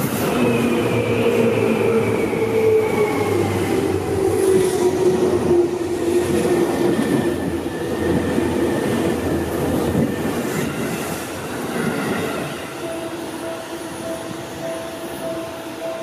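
Seibu Ikebukuro Line electric train passing close by, a loud rumble with a whine that falls slowly in pitch over about ten seconds. After that it eases into a quieter, steady tone as another train approaches.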